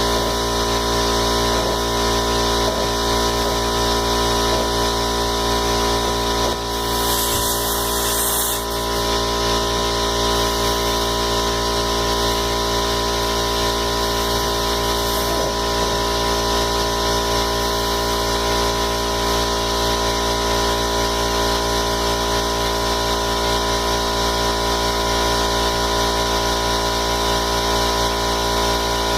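Air compressor running steadily with a constant motor hum, building pressure in the airbag system's tank toward 55 psi. A brief hiss comes about seven seconds in.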